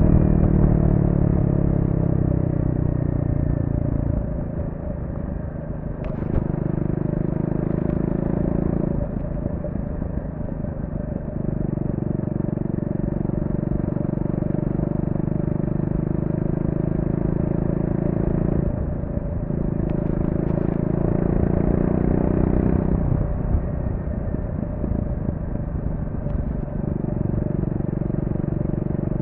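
Triumph Speed 400's single-cylinder engine through its stock exhaust while riding: the note falls as the bike slows over the first few seconds, then runs in several steady stretches of throttle separated by brief drops in the note. A few sharp clicks.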